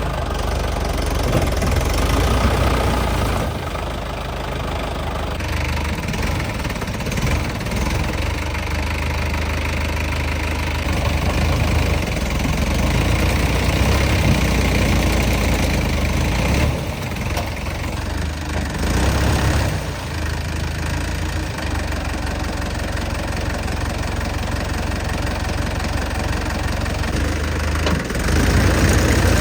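Diesel tractor engine running steadily, the loudness rising and falling a little, with the sound changing abruptly a few times.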